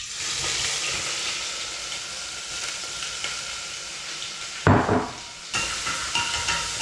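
Chopped onions hitting hot oil with cumin seeds and frying: a steady sizzle that starts suddenly, with a louder surge of sizzling and stirring about two-thirds through.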